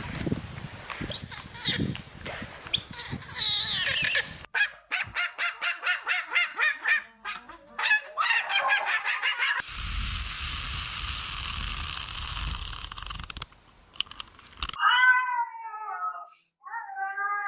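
Animal calls from several short clips cut together: high, gliding chirping calls, then a quick run of short repeated calls, a few seconds of steady hiss that cuts off suddenly, and a bleat near the end.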